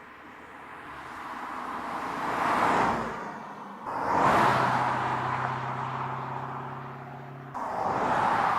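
BMW 6 Series Gran Coupe driving past several times in quick edited shots: a swelling rush of tyre and wind noise peaks about two and a half seconds in, then a sudden cut to a second pass with a steady engine hum that fades off, and another sudden cut near the end to a third rush.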